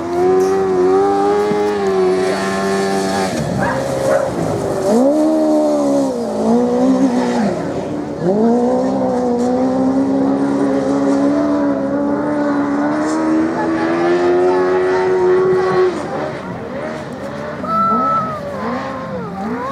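Racing motorcycle engines running hard, their pitch dropping and climbing again several times as the throttle is shut and reopened. Near the end more than one bike is heard at once.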